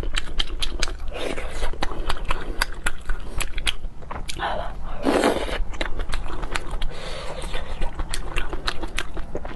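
Close-miked eating sounds of a person chewing spicy noodle soup: wet chewing with many sharp mouth smacks and clicks, and a fuller mouth sound about five seconds in.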